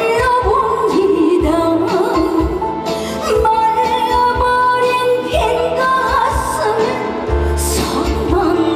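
Live music from a gentle, slow trot ballad, with a sustained melody line over band accompaniment.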